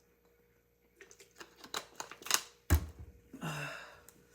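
A run of light clicks and taps, then a single thump a little after the middle, with a short breathy sound after it.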